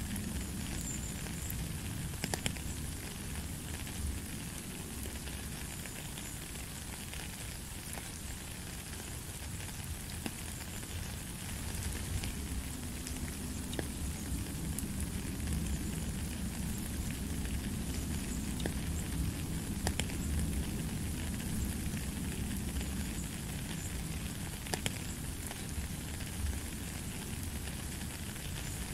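Steady rain falling on a gravel path and into a puddle: an even hiss with a low rumble underneath and scattered sharper drops ticking through it.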